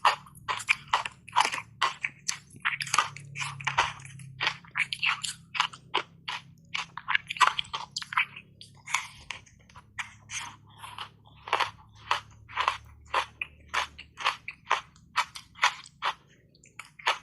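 Ice coated in matcha powder being bitten and chewed: a continuous run of sharp, crackling crunches, about two to three a second.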